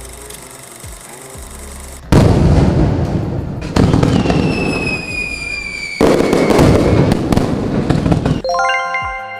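Fireworks sound effect: three loud crackling bursts, about two, four and six seconds in, the second carrying a slowly falling whistle. Near the end a quick run of ringing bell-like tones comes in.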